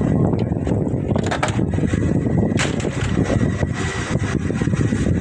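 Ricoh MP 3555 copier's document feeder running: a steady mechanical rumble with a faint high whine and a few sharp clicks.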